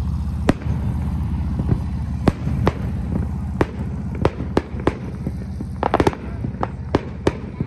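Aerial fireworks bursting overhead: about a dozen sharp, separate bangs at irregular intervals, with a quick cluster of pops about six seconds in. A steady low hum runs beneath them.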